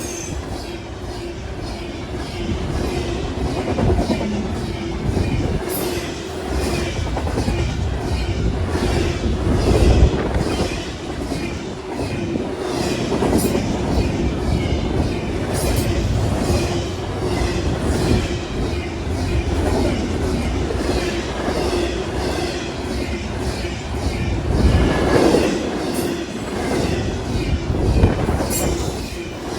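A train rolling past, its wheels clicking over the rail joints, with a continuous rumble.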